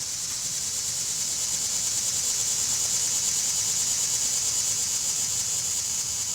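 Insects calling in a steady, high-pitched chorus with a fast, even pulse. It swells over the first few seconds and eases off near the end.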